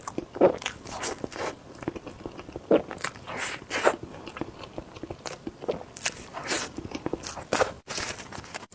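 Close-miked eating: irregular bites and chewing with short wet, crackling mouth sounds, a few bites standing out louder.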